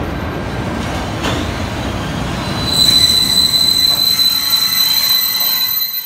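Electric train rolling away along the station track with a low rumble; about three seconds in, the wheels start a steady, loud, high-pitched squeal over the rumble.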